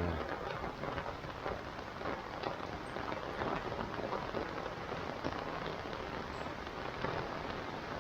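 Monsoon rain falling steadily, a dense hiss of many drops hitting surfaces at an even level.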